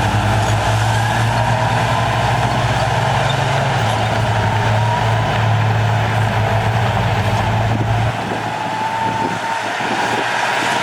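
Heavy diesel earthmoving machinery running steadily with a low engine drone and a faint wavering whine. The low drone drops away about eight seconds in, then partly comes back near the end.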